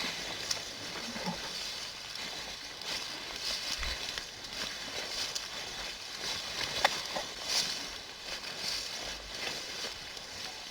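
Footsteps crunching over the forest floor, with soft irregular steps against a steady outdoor hiss.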